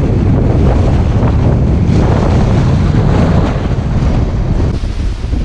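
Strong gusting wind buffeting the microphone: a loud, steady low rumble of wind noise, which changes character just before the end.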